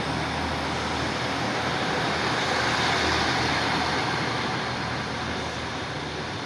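Class 153 diesel multiple units moving through the station: a broad rumble and hiss that swells to a peak about three seconds in and then slowly fades, over a steady low hum.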